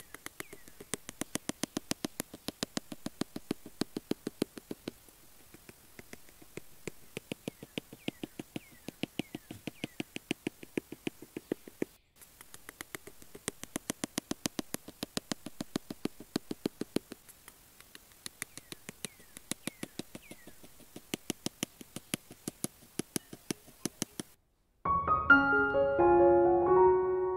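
Rapid sharp clicking in runs of a second or two, with short gaps between and a few faint short falling chirps. Piano music comes in near the end.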